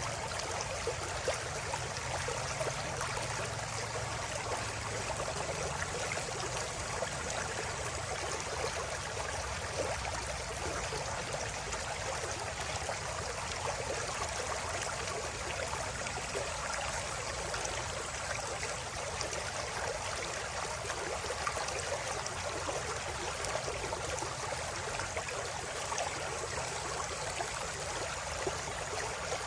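River water flowing steadily, a continuous even rush of running water.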